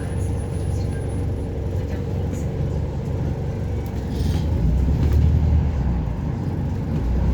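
City bus engine and drivetrain rumbling, heard from inside the passenger cabin, with a few light rattles; the rumble grows louder about four seconds in.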